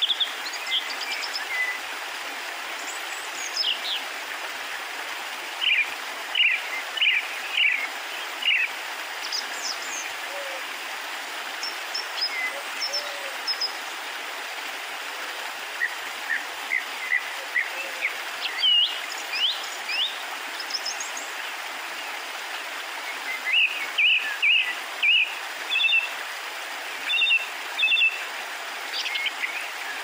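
Small birds chirping in quick runs of short, sliding high notes over a steady rushing hiss. The calls bunch up in the first few seconds and again in the last several.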